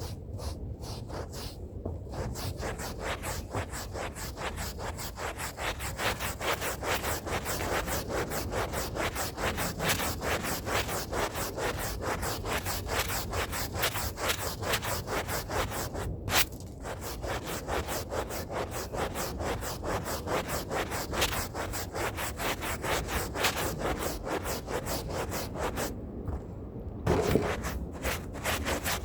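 A stiff hand brush scrubbing a rug's pile in rapid back-and-forth strokes, several a second. There is a brief pause near the end before the scrubbing resumes.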